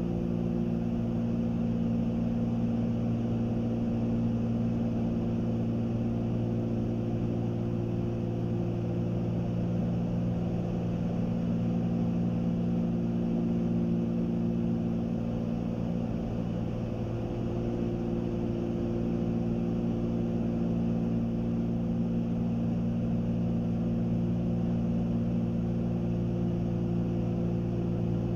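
Cessna 310Q twin piston engines and propellers droning steadily in level cruise, heard inside the cabin. One of the tones fades out and comes back about halfway through.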